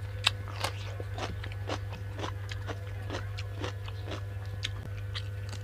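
A person chewing a mouthful of food close to the microphone, about two chews a second, over a steady low hum.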